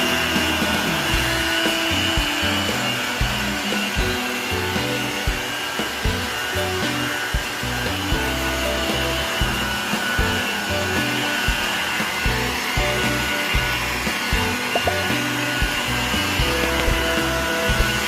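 Electric rotary polisher running steadily as it buffs wax on car paint, with a constant whine, under background music.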